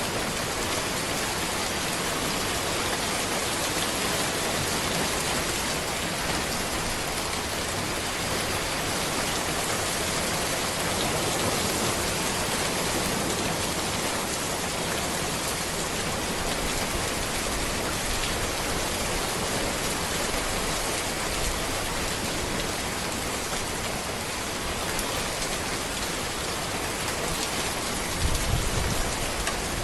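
Steady rain falling on a road among trees, an even hiss of drops. A brief low rumble comes in near the end.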